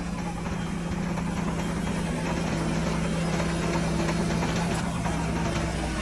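Heavy earthmoving machine's diesel engine running at a steady speed, a constant drone with no revving.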